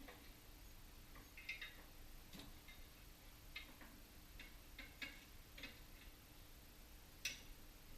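Near silence with faint, irregularly spaced light clicks and taps, one a little sharper about seven seconds in, over a quiet steady hum.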